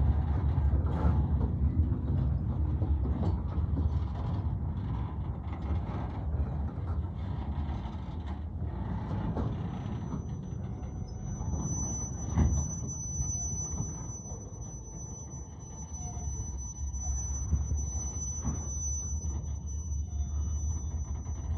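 Freight train of covered hopper cars rolling slowly past: a steady low rumble with scattered clacks of wheels over the rail joints. About ten seconds in a thin, steady high squeal of wheel flanges on the curve comes in, and a single louder clank comes soon after.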